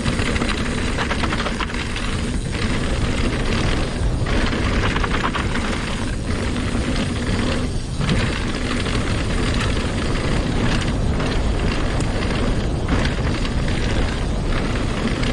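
Hardtail mountain bike riding over loose, rocky trail: wind buffeting the body-mounted microphone over a steady rattle of tires, chain and frame knocking on the rocks.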